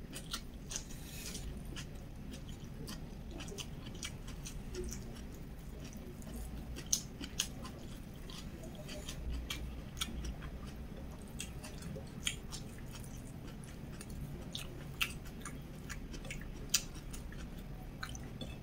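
Close-miked chewing of a mouthful of rice and omelette eaten by hand, with scattered short wet mouth clicks over a steady low hum.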